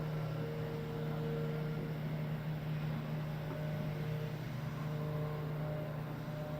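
A steady low mechanical hum, like a motor or engine running at constant speed.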